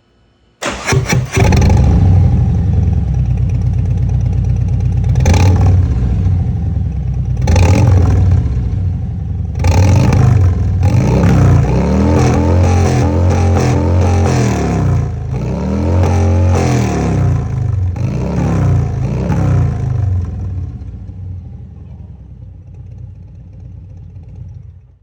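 Harley-Davidson Road King Special's V-twin engine breathing through Vance & Hines pipes with the baffles removed: it starts about a second in, then is blipped and revved up and down several times, loud and open. Over the last few seconds the sound falls away and then cuts off.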